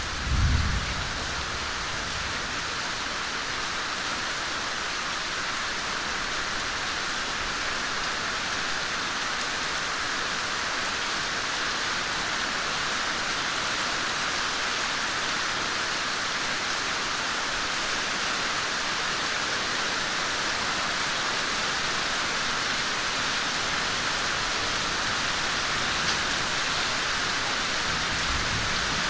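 Steady rain falling and dripping in a yard, building slightly heavier, with a thunderstorm approaching. A short low rumble comes about half a second in and a fainter one near the end.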